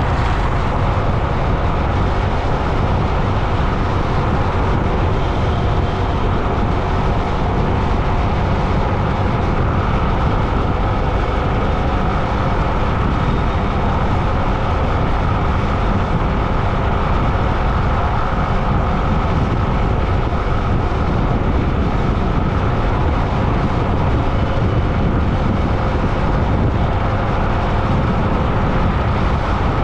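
Steady road and wind noise from riding along a road: a loud, even rumble with a faint steady hum and no separate events.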